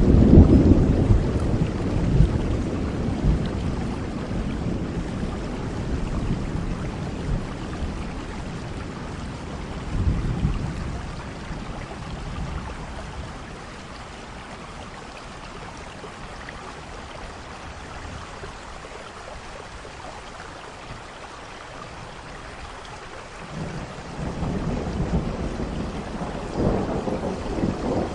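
Steady rain falling, with rolling thunder: a loud rumble at the start that dies away over several seconds, another near ten seconds in, and thunder rumbling up again from about twenty-three seconds in.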